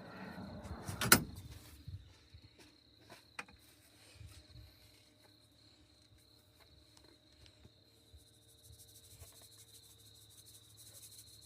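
Crickets chirping in a steady high trill, with a loud sharp knock about a second in and a smaller one a couple of seconds later.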